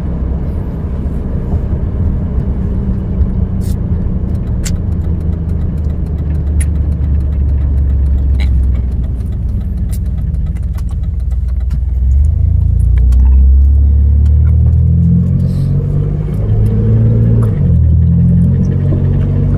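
Truck engine and road noise heard from inside the cab while driving: a steady low drone, whose engine note rises and drops in steps over the last several seconds.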